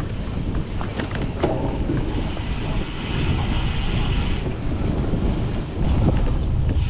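Wind buffeting the microphone of a camera riding along on a cyclocross bike at race pace: a steady low rumble with a few short knocks and rattles from the bike over rough ground.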